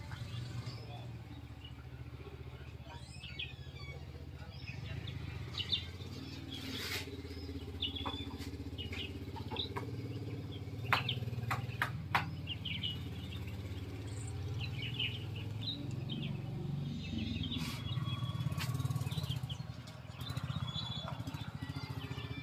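Birds chirping in short calls throughout, over a steady low rumble, with a few clicks around the middle.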